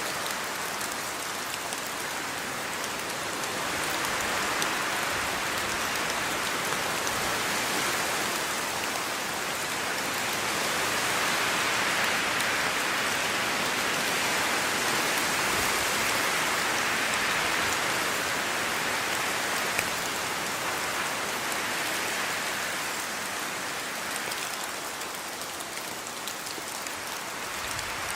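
Steady rainfall, an even hiss of drops on surfaces with faint individual drop ticks, swelling a little louder around the middle and easing off again.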